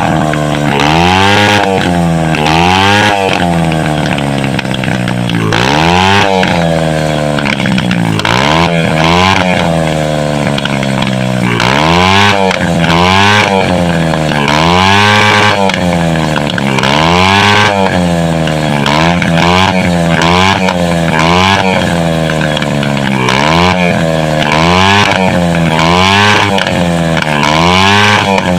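110cc dirt-bike engine, a small four-stroke single, running and being revved again and again, roughly once a second, dropping back toward idle between the blips.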